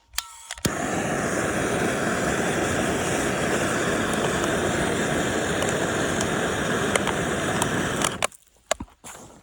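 Handheld gas torch clicked alight and held on a fire-starter log, its flame jet hissing steadily for about seven seconds before it is shut off abruptly, followed by a few clicks.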